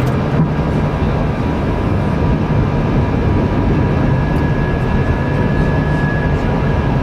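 Airbus A320 jet engines and airflow making a steady, loud roar during a go-around from a low autoland approach, heard in the cockpit, with a faint high whine over it.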